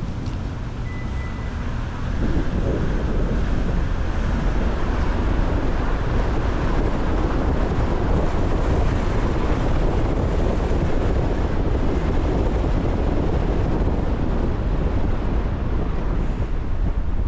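Car driving on a rain-wet road: steady tyre and road noise with a low rumble and the hiss of spray, getting louder about two seconds in.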